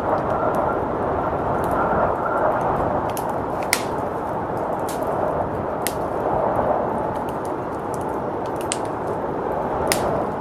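Wood fire crackling with scattered sharp pops over a steady rush of blizzard wind.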